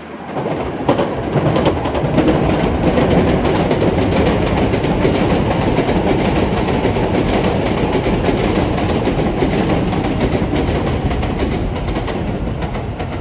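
500 series Shinkansen train passing on an elevated track: a steady rush of wheel and running noise that comes up within the first second and eases slightly near the end as the train goes by.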